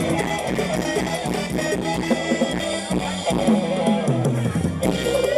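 Loud band music playing through the sound system of a Thai rot hae parade sound truck.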